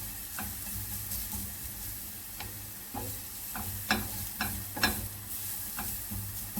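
Shredded carrot sizzling in oil in a frying pan while a utensil stirs it, with scattered sharp clicks of the utensil against the pan, the loudest a little before 4 s and near 5 s in.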